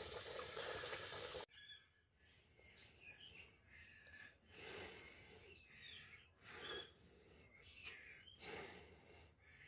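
Near silence, with faint bird calls in the background coming every second or so. A short stretch of steady noise at the start cuts off abruptly about a second and a half in.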